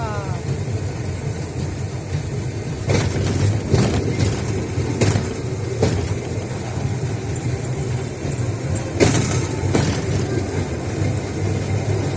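Small tourist train running along the track: a steady low motor and rolling hum, with sharp clicks in pairs every few seconds as the wheels pass over rail joints.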